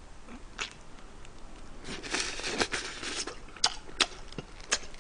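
Close-up sounds of a person biting and chewing a sauce-coated fried chicken wing: irregular wet crunching, denser about two to three seconds in, and a few sharp smacks near the end.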